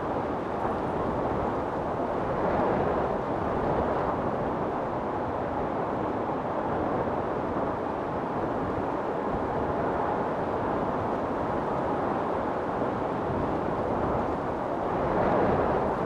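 Wind storm rushing in a steady roar, swelling in gusts about two seconds in and again near the end.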